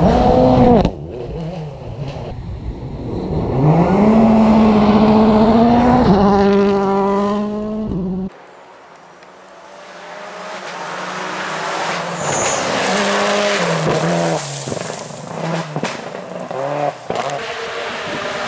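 World Rally cars at full throttle. One engine revs hard, rising and then holding high with quick gear changes. After an abrupt cut, another car comes up with a growing hiss of tyres on the stage surface, its engine climbing and stepping through shifts as it passes.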